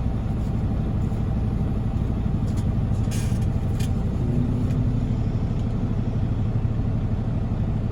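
Heavy truck diesel engine running steadily with a low rumble while a wrecker pulls a semi out of sand. A short hiss comes about three seconds in.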